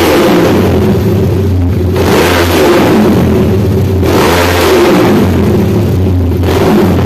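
Honda CBX 250 Twister single-cylinder four-stroke engine in a prototype motorcycle, revved by hand in short blips about every two seconds and idling between them, on a temporary exhaust while its carburettor is still being tuned.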